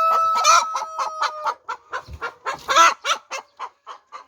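Chickens in a henhouse clucking in quick short calls, with one long drawn-out call ending about a second and a half in.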